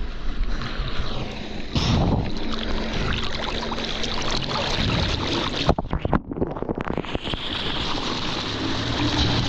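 Jet ski engine running, mixed with splashing water and wind buffeting the microphone; about six seconds in the sound briefly drops away and crackles before the steady rush returns.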